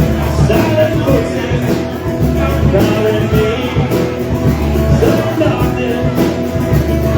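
Live rock band playing a song, with singing over a steady drum beat.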